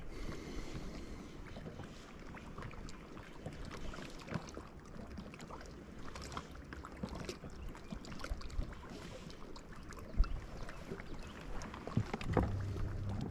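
Outdoor noise from a boat on open water, with wind and many small scattered clicks and taps and one sharper tick. A steady low hum starts near the end.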